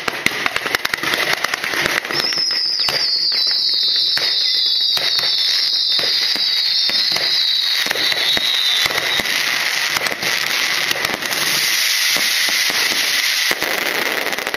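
Fireworks display: a dense run of cracks and pops from rockets and bursting aerial shells over a steady crackle. A high whistle comes in about two seconds in and slowly falls in pitch, fading out around the ninth second.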